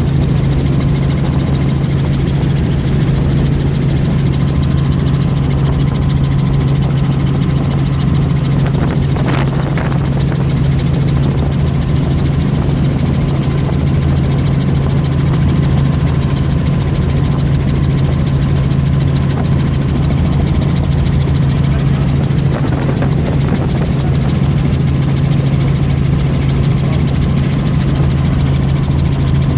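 Helicopter running with a loud, steady drone of engine and rotor that does not change.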